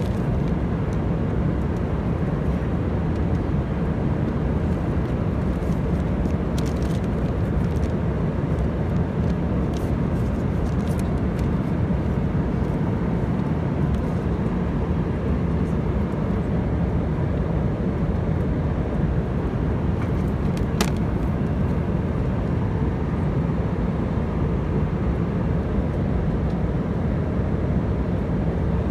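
Steady low roar of engine and airflow noise inside the cabin of an Airbus A319 airliner, with one brief click about twenty seconds in.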